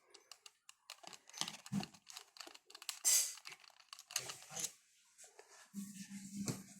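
Irregular quick clicks, taps and rattles of small hard parts being handled, with a steady low hum starting near the end.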